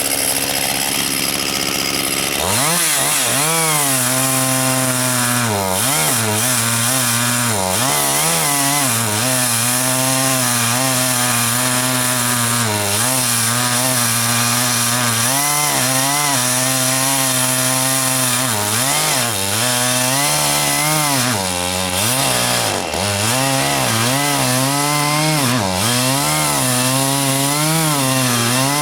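Chainsaw starts up loud about two seconds in. Its engine pitch dips and recovers again and again, as it does when the saw bogs down in a cut and picks up again.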